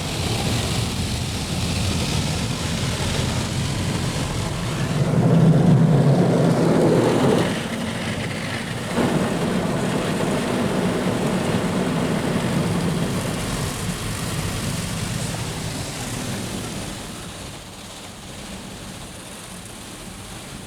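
Istobal M12 rollover car wash heard from inside the car: rotating brushes and water spray working over the bodywork, with the gantry's motors running. A steady noise that swells for a couple of seconds about five seconds in and eases off near the end.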